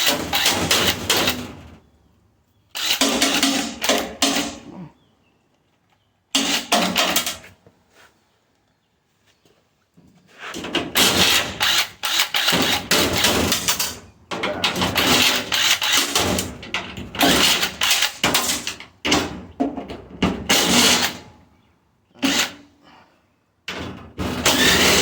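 Power tool run in repeated loud bursts of one to four seconds, with short pauses between, as parts are taken off a stainless steel restaurant dishwasher.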